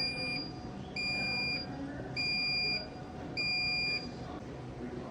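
An electronic beeper sounding four steady high-pitched beeps of about half a second each, evenly spaced a little over a second apart.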